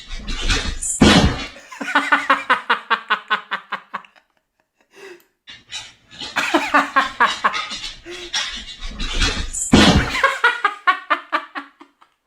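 Hearty laughter in two long bouts of rapid, repeated 'ha-ha' pulses, with a short pause of about two seconds between them.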